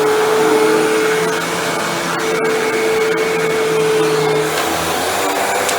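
Hoover Windtunnel Bagless upright vacuum cleaner running steadily, a constant motor whine over the rush of its airflow.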